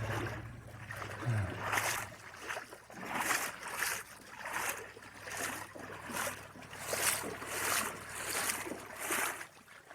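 Footsteps of a person wading in waders through creek water: a regular swish and slosh about once a second.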